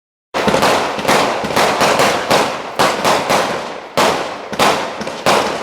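Fireworks going off in quick succession: loud bangs about three a second at uneven spacing, each trailing off in a rumbling echo, starting a moment in.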